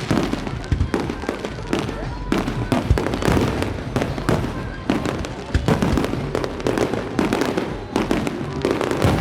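Fireworks and firecrackers going off in many places at once: a dense, irregular barrage of bangs and pops, several a second, overlapping into a continuous rumble.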